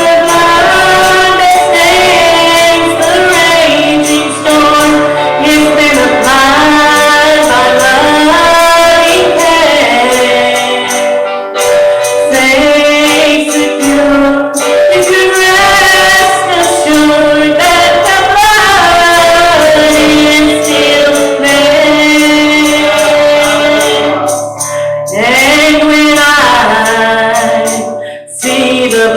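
Gospel worship song: voices singing, a woman's voice most prominent, over instrumental accompaniment.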